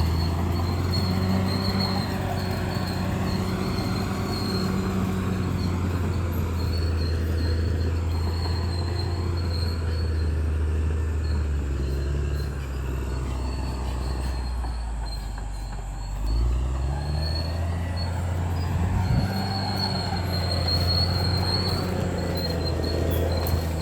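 Bulldozer's diesel engine running steadily under load, dipping briefly about two-thirds of the way through and then picking up again, with a thin high squeal coming and going over it.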